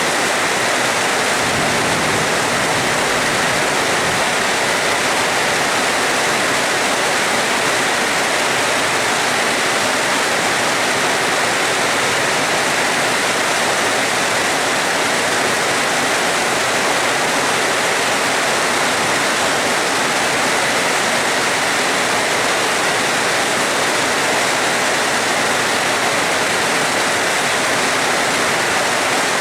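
Heavy rain falling in a steady, unbroken hiss with no breaks or swells.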